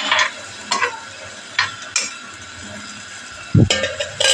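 Litti frying in hot oil with a steady sizzle, while a utensil stirs and scrapes in the pan in a few short strokes. A heavier knock comes near the end.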